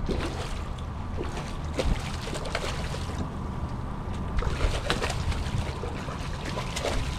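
Water splashing and sloshing beside a fishing kayak, with many scattered sharp clicks and knocks, loudest about two thirds of the way through, over a low wind rumble on the microphone.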